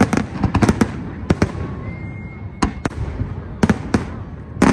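Fireworks display going off close by: sharp bangs and crackling reports in quick clusters about every second, over a steady low rumble of booms.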